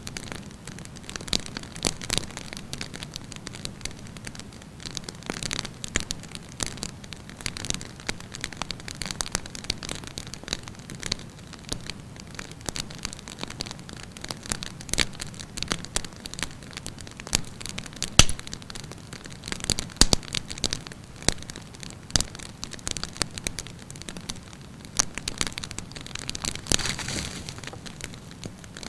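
Wood campfire burning, a steady hiss and flutter of flames under irregular crackles and sharp pops of burning wood, two louder pops about 18 and 20 seconds in.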